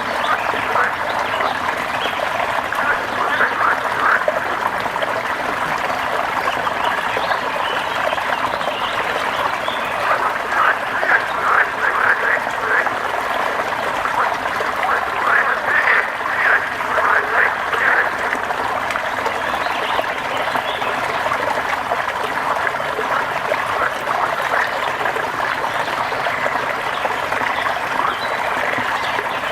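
Frogs calling in bouts of rapid croaks over a steady hiss of rain. The louder bouts come a few seconds in and again around the middle.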